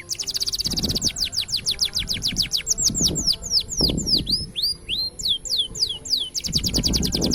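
Green canary singing a long, unbroken song of quick, sharply falling whistled notes, with fast rattling trills near the start and again near the end.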